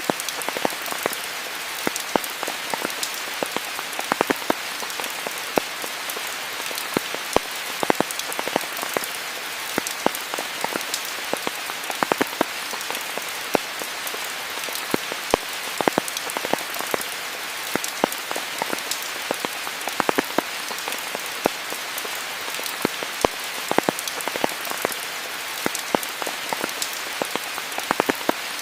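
Steady rain falling: a constant hiss with many separate, louder drops striking at irregular moments throughout.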